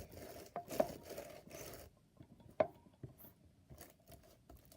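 Homemade slushy slime being handled: faint, irregular crackles, scrapes and small clicks, busier in the first two seconds, with one sharper click about two and a half seconds in.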